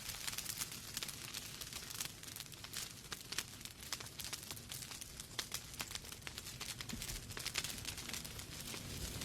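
Wood fire burning in a fireplace, crackling with many small irregular pops and snaps over a soft steady hiss.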